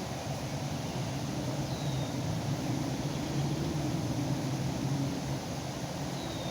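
A low, steady engine drone with a distinct hum, growing a little louder through the middle and easing near the end, over a constant background hiss. Two faint, short high chirps are heard, one about two seconds in and one near the end.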